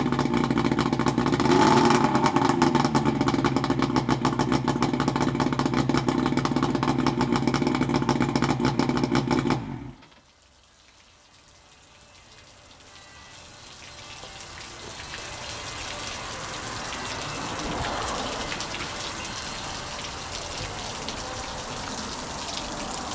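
1972 Johnson 65 hp two-stroke outboard motor running, revving up briefly about two seconds in, then stopping abruptly about ten seconds in. Afterwards a soft, even hiss slowly grows louder.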